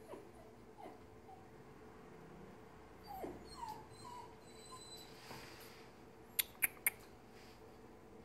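A dog whimpering: a series of short, faint, high whines that slide downward in pitch. About six and a half seconds in, three sharp clicks come in quick succession and are louder than the whines.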